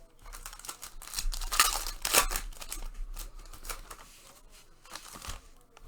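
Trading card packs being opened and cards handled: irregular crinkling, tearing and scratchy rustling, loudest about two seconds in.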